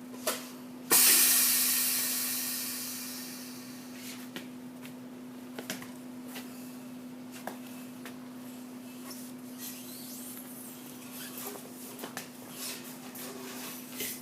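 A sudden loud hiss of escaping air about a second in, fading away over about three seconds, over the steady hum of the tire sidewall remover running. A few light clicks and knocks follow.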